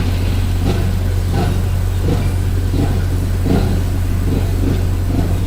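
Engines idling with a steady low hum, with short swells of revving now and then.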